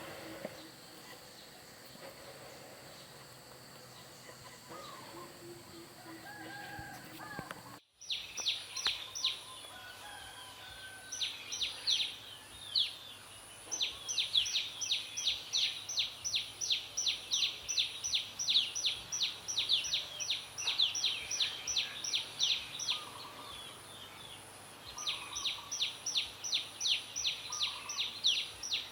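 Birdsong in a forest: soft scattered calls at first, then, after a sudden change about eight seconds in, a bird repeating a fast series of high, sharply falling notes, about four or five a second, in long bouts with short pauses between them.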